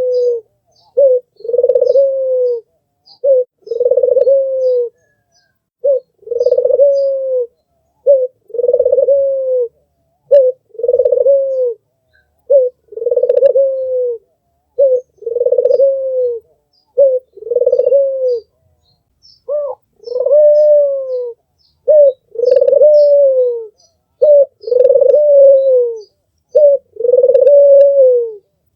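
Albino puter (Barbary dove) cooing over and over: each call is a short note followed by a longer coo that falls in pitch at the end, repeated about every two seconds. Faint high chirps of small birds sound behind it.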